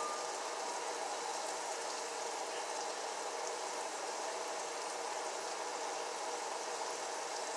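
Chicken gizzards frying in hot grease in a skillet, nearly done: a steady sizzle.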